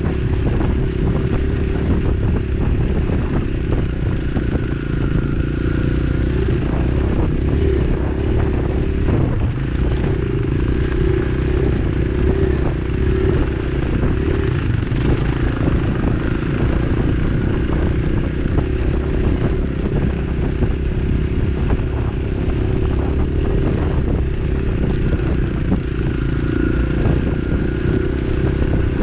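Dirt bike engine running steadily as the bike is ridden, at an even level, with scattered light knocks and rattles over it.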